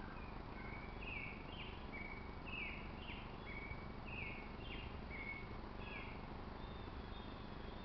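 A bird chirping: a run of short, downward-sliding chirps at two or three alternating pitches, about two a second, fading out near the end, over a steady low background rumble.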